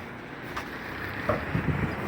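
Steady rushing background noise with a couple of faint knocks.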